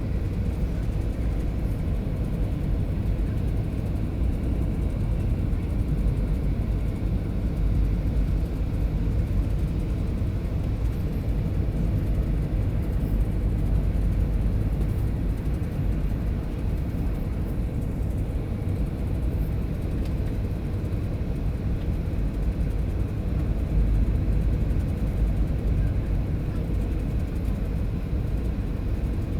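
Steady low rumble of a Boeing 737-700 heard from inside the cabin: engine and airflow noise, growing slightly louder about three-quarters of the way through.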